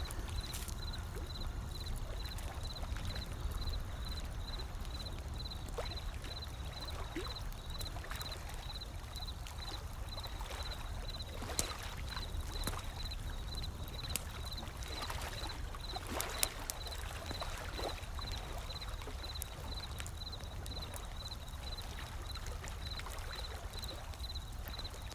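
Wood fire crackling with scattered sharp pops over a low, steady wash of ocean waves.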